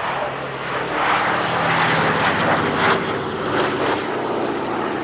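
Piston-engined propeller aircraft flying past at an air display. The engine note swells to its loudest about one to three seconds in, then eases off.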